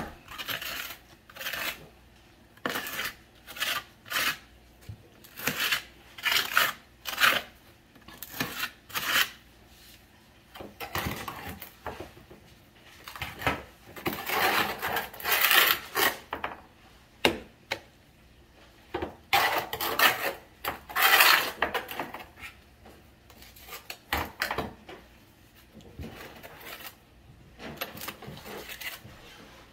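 Irregular scraping strokes and clinks of a metal hand tool working on tile and mortar, with a few longer scrapes in the middle.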